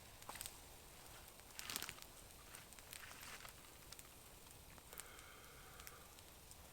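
Near silence, with faint scattered crackles and a few soft rustles.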